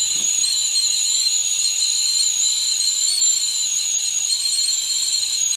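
LUXGRACE stainless steel stovetop kettle whistling at the boil: a loud, steady, shrill whistle in two high tones over a hiss of steam. It stops abruptly at the very end.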